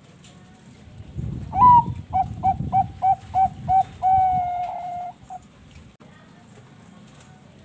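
Zebra dove (perkutut, Bangkok line) singing one cooing phrase starting about a second in: a rising opening note, a quick run of about seven short coos, then one long held coo and a final short one. Low background for the last couple of seconds.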